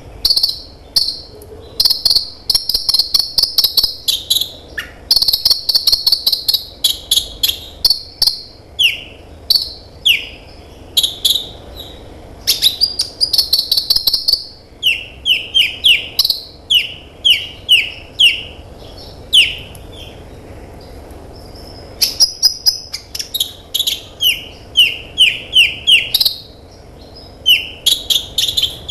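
Kolibri ninja sunbird singing: fast, high-pitched trills and chattering phrases alternating with runs of short downward-sliding notes, several a second.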